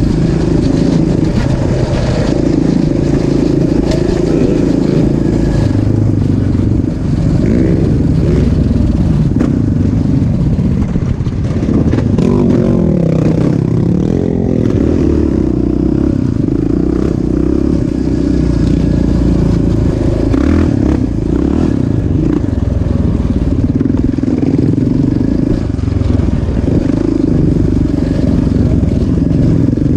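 Single-cylinder off-road engine of a motocross bike or ATV running hard on a dirt track, its revs rising and falling continuously with the throttle.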